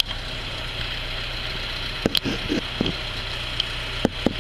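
Car engine running steadily at low revs, heard from inside the cabin, with a few sharp clicks and knocks from hands handling the camera, about two seconds in and again near the end.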